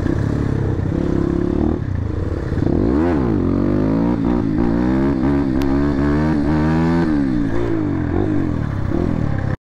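Motorcycle engine with its dB killer (exhaust baffle) removed, revving and accelerating. The pitch rises and falls about three seconds in, then climbs steadily for several seconds before dropping back.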